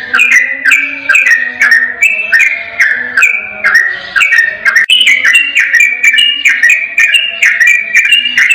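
Yellow-vented bulbul (trucukan) singing a fast, unbroken run of short, bubbly falling whistled notes, about four a second with no pauses: the rapid 'ropel' song used as a master recording.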